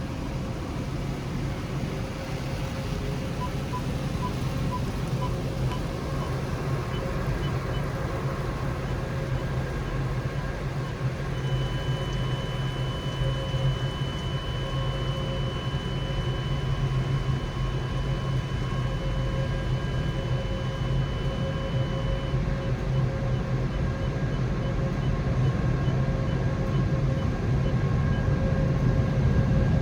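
Automatic car wash machinery running: a steady low mechanical drone with a few faint steady tones over it, a higher whine held for about ten seconds in the middle, and the drone growing louder near the end.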